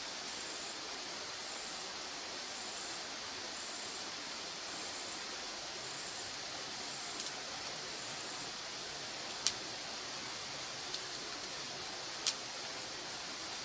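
Wood fire burning with a steady hiss and a few sharp crackles, two of them louder, about two-thirds of the way in and near the end. Through the first two-thirds a high insect chirp repeats regularly, about every half second.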